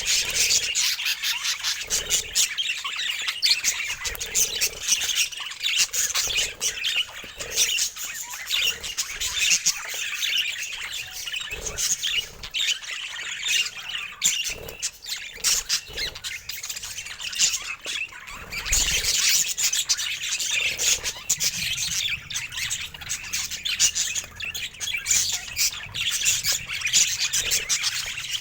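Budgerigar chatter: a continuous warble packed with short chirps and squawks.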